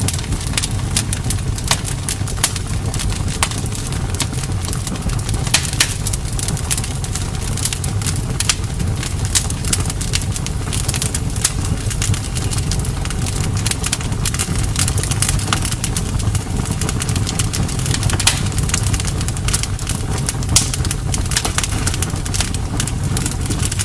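Campfire burning: a steady low rumble of the flames under frequent sharp crackles and pops, with a few louder snaps about six seconds in and again late on.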